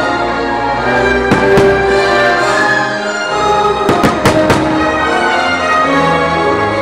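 Orchestral fireworks-show soundtrack playing over the park's loudspeakers, with firework bursts banging through it: two about a second and a half in, and three in quick succession around four seconds in.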